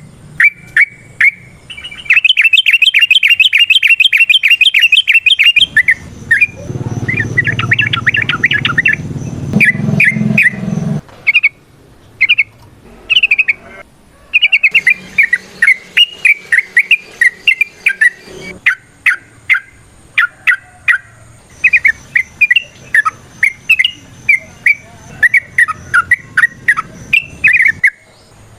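Yellow-vented bulbul (trucukan) singing in quick bursts of sharp, bubbly notes, with a long fast rattling trill about two seconds in and another around seven seconds. A low steady noise sits under the song from about seven to eleven seconds.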